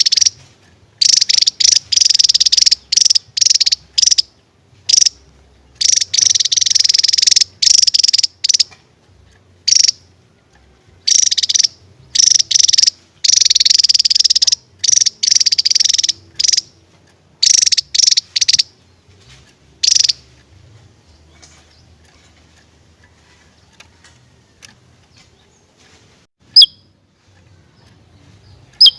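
Javan tesia singing in loud, buzzy, trilled bursts lasting up to about two seconds each, repeated over and over with short gaps, then falling quiet for the last third apart from two short sharp high chirps near the end.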